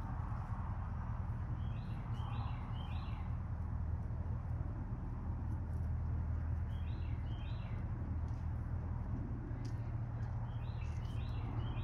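A bird chirping in short clusters of two or three high notes, a few seconds apart, over a steady low hum.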